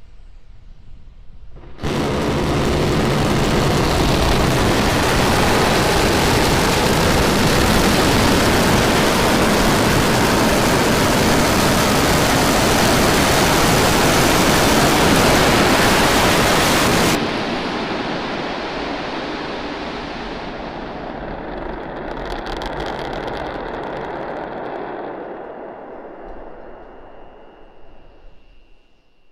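Starship SN10's Raptor rocket engines firing for the flip and landing burn: a loud, steady roar that starts suddenly about two seconds in and cuts off abruptly about seventeen seconds in, the engines shutting down, followed by a fading rumble.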